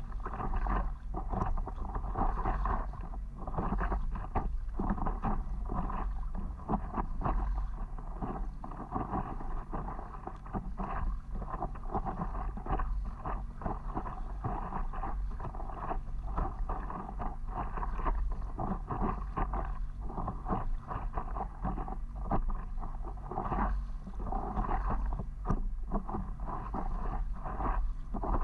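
Water sloshing and splashing irregularly against a stand-up paddleboard, over a steady low rumble of wind on the microphone.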